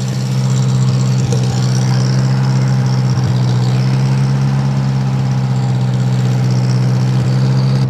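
Snowblower engine idling steadily as it warms up after a cold start.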